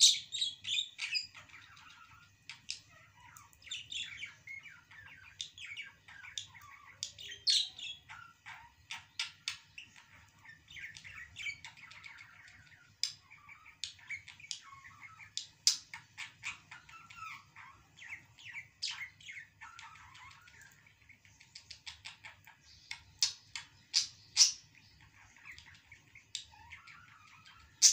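Small birds chirping: a busy, irregular run of short high chirps and twitters, some much louder than others.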